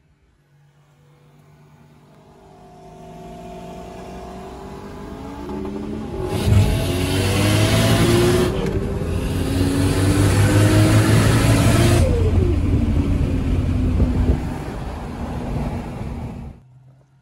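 A car accelerating hard down a drag strip. The engine note builds and climbs in steps through gear changes, gets much louder through the middle as it comes close with a broad rushing hiss, then fades and cuts off just before the end.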